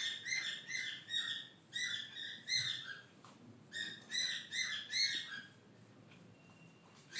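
Cockatiel chirping: two quick runs of short calls, each note sliding down in pitch, about three a second, with a brief pause between the runs. The chirping stops a little past halfway.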